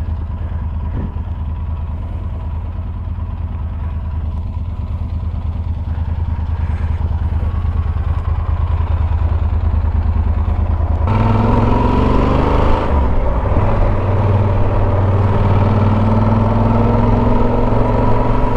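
Motorcycle engine running while riding; about eleven seconds in it gets louder and its pitch climbs as the bike accelerates, then it holds a steady, higher note.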